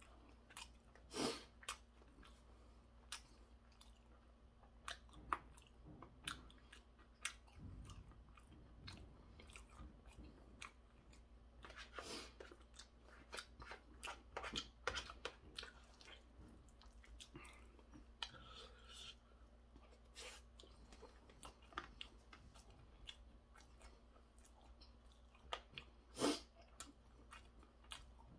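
A person chewing stir-fried pork cartilage, with faint, irregular crunches and mouth clicks; two sharper crunches come about a second in and near the end.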